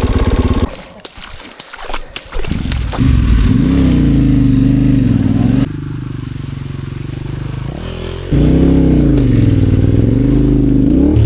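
Motorcycle engine running under way, its pitch rising and falling again and again as the throttle is opened and closed. It drops away briefly with a few clicks about a second in, comes back, goes quieter in the middle and picks up loud again.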